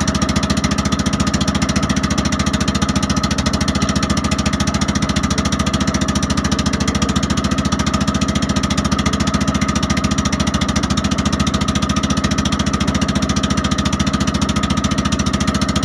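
Boat engine running steadily, a fast even chugging that does not change.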